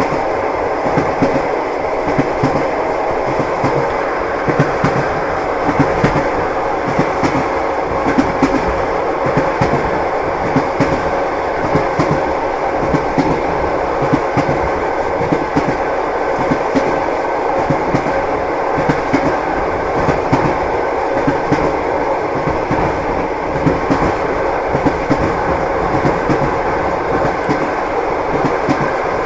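Train wheels clacking steadily over rail joints, heard from inside a passenger compartment, over a continuous rumbling ride noise.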